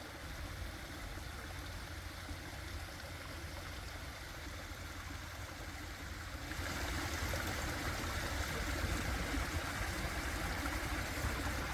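Seasonal stream running, a steady rush of water that grows louder about six and a half seconds in.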